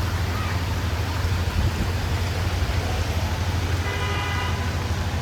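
Street traffic noise, a steady low hum under a continuous hiss, with a short vehicle horn honk about four seconds in.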